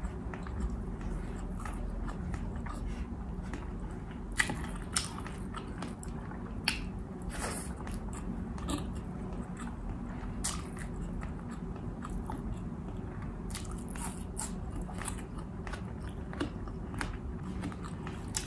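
A person chewing bistek tagalog (Filipino beef steak) close to the microphone, with scattered sharp mouth and food clicks, several of them bunched together about two-thirds of the way through.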